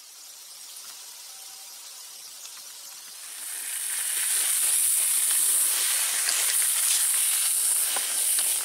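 Food sizzling on a barbecue grill: a steady high hiss with fine crackles, which grows much louder about three seconds in and then holds.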